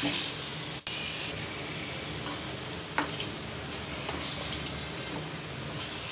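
Chicken pieces frying in oil and masala in a kadhai, sizzling steadily while a spatula stirs and scrapes the pan, with sharper scrapes at the start and about three seconds in.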